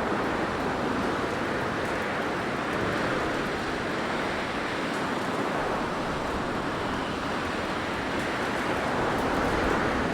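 Blizzard wind blowing: a steady rush of noise that swells and eases gently, with no distinct gusts or clicks.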